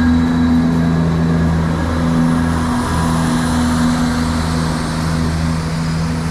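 Diesel multiple-unit train's engine running steadily at the platform: a loud, even, deep hum with several steady engine tones.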